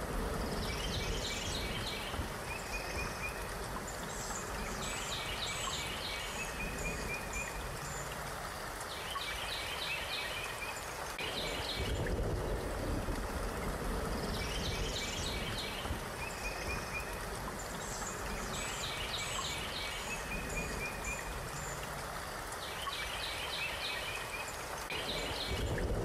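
A songbird sings short trilled phrases every few seconds over a steady rushing background noise; the same stretch repeats about every twelve seconds, as a looped ambience track.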